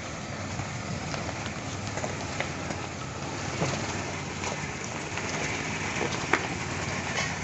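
Land Rover Series engine idling, a steady running noise with a few faint clicks.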